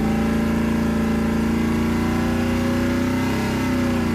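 1987 Chevrolet C10 pickup's engine running steadily in gear, its pitch creeping slowly upward and dipping a little about three and a half seconds in.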